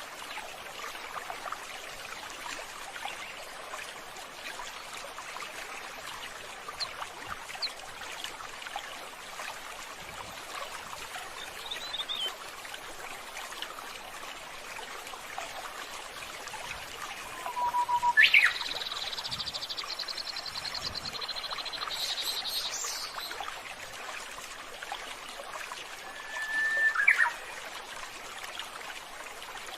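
Birds calling over steady running water. A few faint chirps, then the loudest call about eighteen seconds in: a sharp rising note followed by a rapid trill lasting several seconds. Another short call comes near the end.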